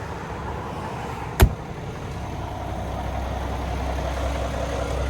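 Semi-truck diesel engine idling steadily, its low rumble growing a little louder toward the end, with one sharp click about a second and a half in.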